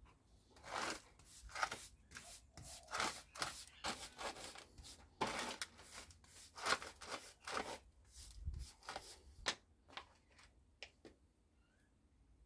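An irregular run of short scraping, rubbing strokes, roughly two a second, stopping about eleven seconds in.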